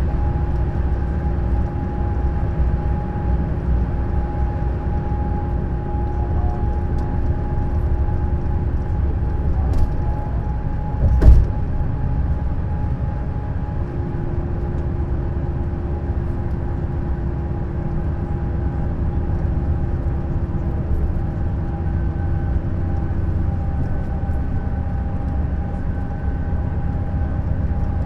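Neoplan Skyliner N 1122/3C double-decker coach driving steadily, heard as a continuous low rumble with a faint steady whine. A single loud thump comes about eleven seconds in.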